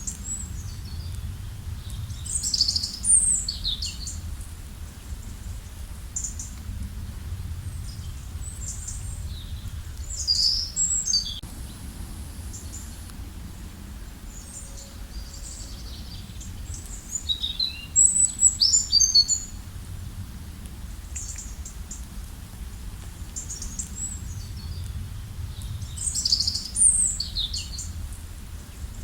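Songbirds singing short bursts of quick, high chirps and trills, four times, about every seven to eight seconds, over a steady low rushing background.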